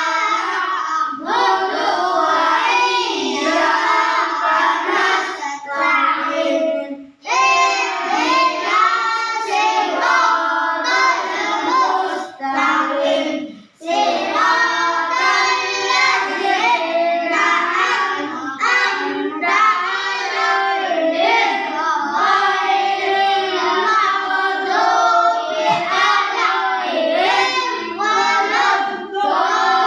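Children's voices chanting together in a sing-song melody, typical of the group Qur'an recitation of a mengaji lesson. The chant runs on continuously, with two brief breath pauses, about seven and about thirteen and a half seconds in.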